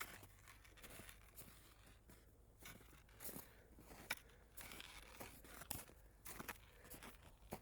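Faint, irregular crunching and rustling of someone moving on foot through snow and brush, a dozen or so short crunches with no steady rhythm.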